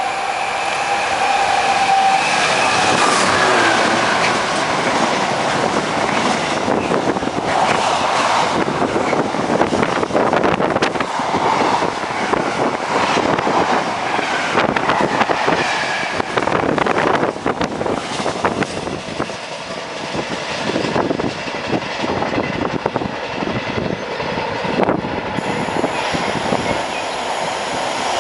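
Container freight train passing close at speed, its wagons rumbling and clattering over the track. A steady high tone sounds during the first three seconds.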